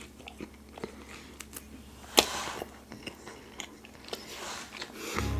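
Close-miked eating sounds: chewing with wet mouth clicks, and one loud crunchy bite about two seconds in. Music starts just before the end.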